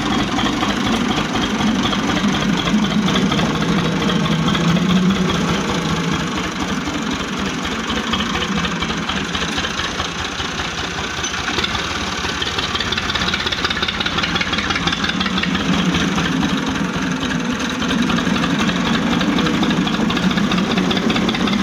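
Tractor's diesel engine running steadily at low revs as it slowly reverses a loaded sand trolley into position.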